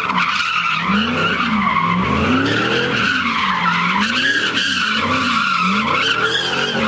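Ford Mustang doing donuts: the tyres squeal without a break while the engine revs rise and fall about once a second.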